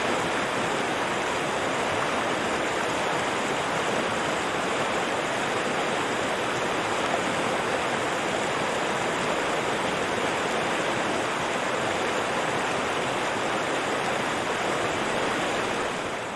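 River water flowing steadily, fading out near the end.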